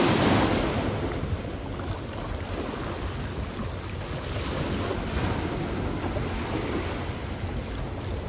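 Sea surf on a beach. A wave breaks at the start and its wash fades over the next second or so, leaving a steady rush of surf.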